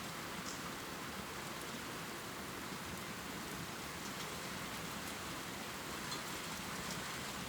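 Steady heavy rain pouring, an even hiss with the odd higher drop tick.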